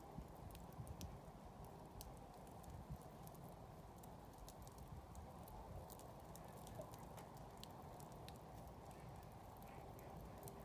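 Wood campfire burning quietly, with a faint steady hiss and scattered small sharp crackles and pops at irregular intervals.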